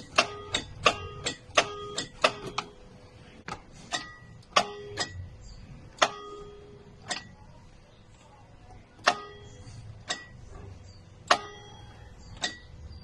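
Toyota Hiace starter solenoid clicking repeatedly with sharp, slightly ringing metallic clicks, in quick clusters at first and then more spaced out, while the engine does not crank: the click-but-no-start fault.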